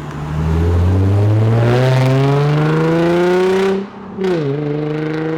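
A car accelerating hard: the engine's revs climb steadily for about three seconds, break off briefly for an upshift about four seconds in, then pull again at lower revs.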